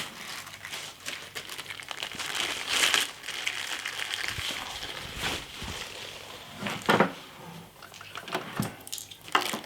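Packaging crinkling while it is handled, with scattered irregular clicks and knocks of parts being handled.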